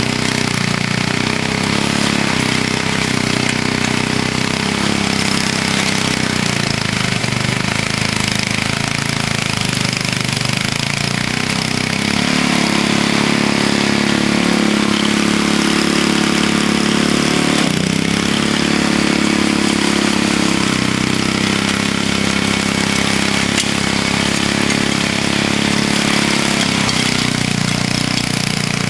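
Vintage Snow Bird snowblower's small gasoline engine running steadily while it cuts into old, hard ice-packed snow. Its pitch dips and recovers a few times as the engine bogs under the load, and it is being run with a little choke on.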